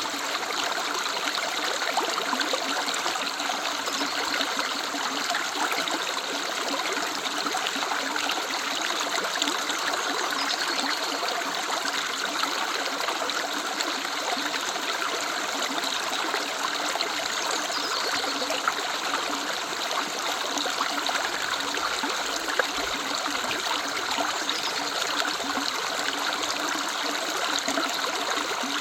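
A woodland river running, a steady continuous rush of flowing water.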